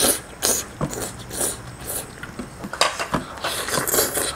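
Close-up eating sounds: irregular wet clicks and smacks of someone chewing food.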